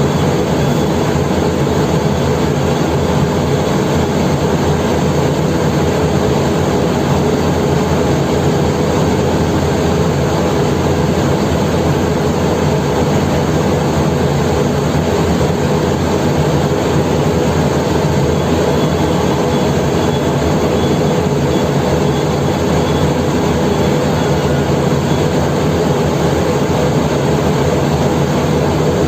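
Large diesel engine running steadily and loudly, with no change in pace.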